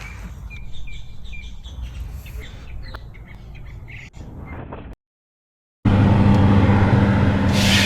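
Backyard chickens clucking and chirping softly. After a short gap, a much louder steady rushing noise with a low hum takes over for the last two seconds.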